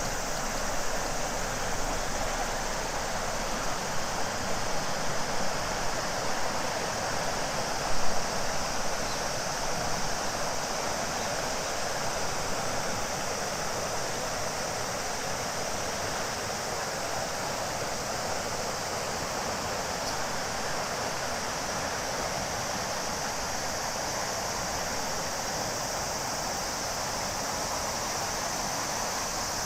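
Shimanto River flowing with a steady rush of water, over a steady high drone of summer cicadas. The water is briefly louder about a quarter of the way in.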